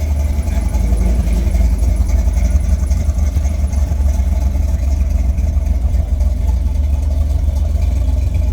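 A car engine running steadily, with a heavy, constant low drone.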